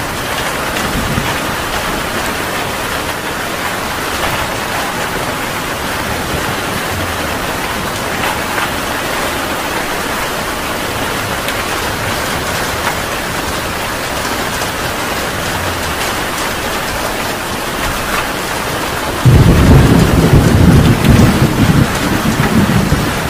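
Heavy rain falling steadily. A loud, low rumble of thunder breaks in suddenly near the end and keeps rolling.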